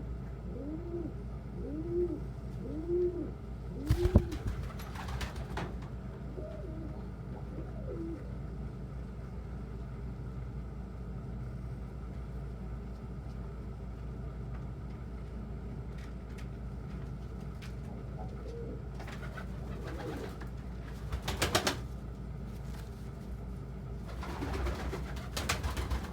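Domestic pigeons cooing: a run of short rising-and-falling coos about one a second at the start, and a few more a little later. Scattered clattering and rustling comes about four seconds in, around twenty seconds in and near the end, over a steady low hum.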